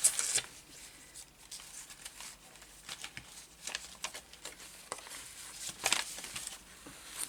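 Paper rustling and crinkling in short, intermittent rustles as a sheet of paper is handled and positioned on a journal page. The loudest rustles come right at the start and again about six seconds in.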